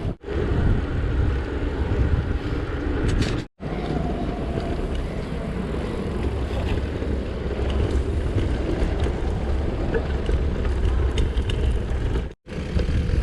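Wind rumbling on the microphone while riding a bicycle, with outdoor traffic noise underneath. The sound cuts out briefly twice, about three and a half seconds in and near the end.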